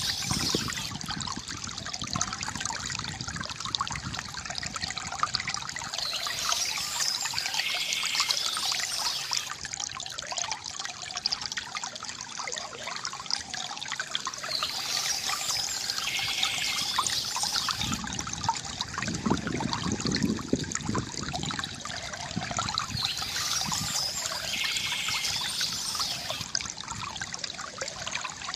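River water gurgling and trickling steadily, with a brighter rush recurring about every eight seconds.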